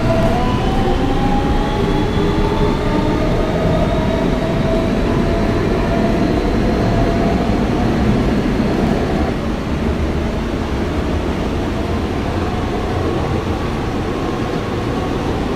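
Siemens AC traction motors of a Kawasaki R160B subway car whining, rising in pitch as the train accelerates, heard from inside the car over steady wheel and track rumble. The whine fades about nine seconds in as the train reaches running speed.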